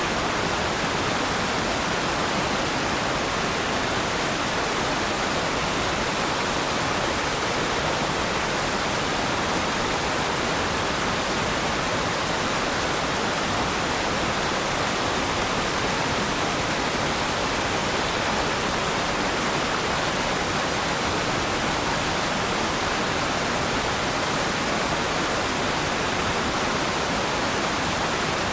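Waterfall: water falling and splashing in a steady, unbroken rush, with no single splashes standing out.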